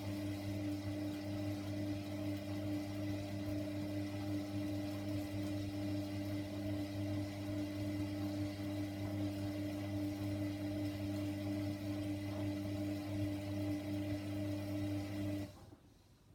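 Hoover washer dryer running mid-wash with a steady electric hum, then stopping abruptly near the end.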